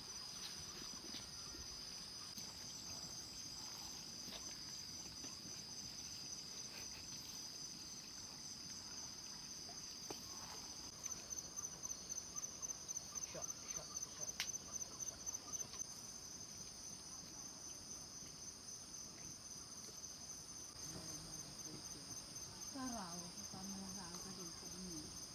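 Crickets and other insects chirping steadily in a high, continuous drone. From about eleven to sixteen seconds in, a louder pulsing trill comes in at about four pulses a second.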